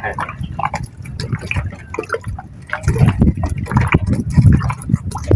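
Water splashing and sloshing, with small drips and irregular clicks over a low surging rumble.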